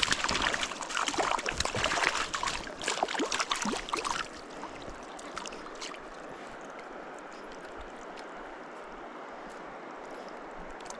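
Water splashing irregularly for about four seconds, then the steady rush of a shallow mountain stream.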